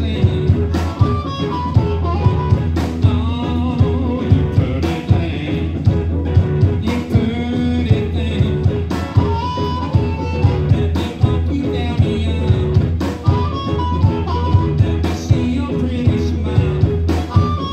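Live band playing a bluesy rock number, with a steady beat under guitar and a wavering lead line.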